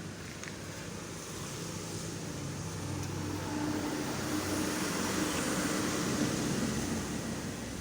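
A motor vehicle passing on the road, its tyre and engine noise swelling over a few seconds, peaking near the end and then easing off, with a low engine hum.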